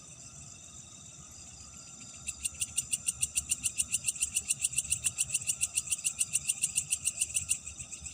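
Night chorus of insects as a steady high-pitched background. About two seconds in, a loud pulsing trill of about eight pulses a second starts up, runs for about five seconds and stops abruptly.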